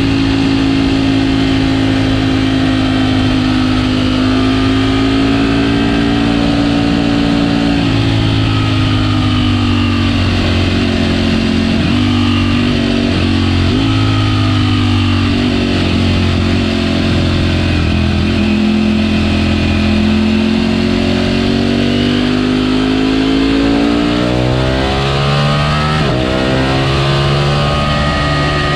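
Ducati Panigale V4 S's 1103 cc V4 engine through its stock exhaust, riding along at a steady pitch. About a quarter of the way in it drops off and wavers on and off the throttle, then climbs steadily near the end as the bike accelerates.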